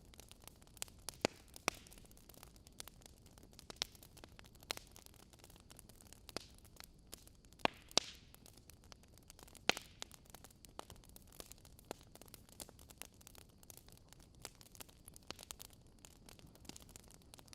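Fire crackling: irregular sharp pops and snaps over a faint steady hiss, with a few louder pops about a second in, near the middle and just after.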